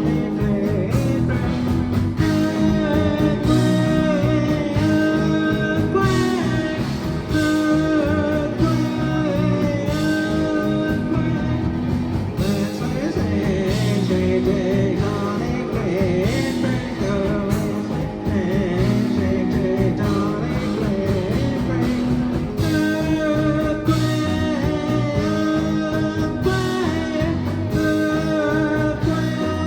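Live rock band playing a song: guitar and drums under sustained melodic lines, with steady beats throughout.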